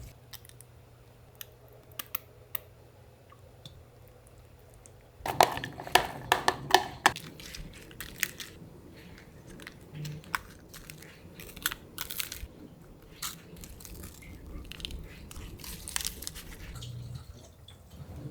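Handling noises: a quick cluster of loud crunching and clattering hits about five seconds in, then scattered clicks and taps.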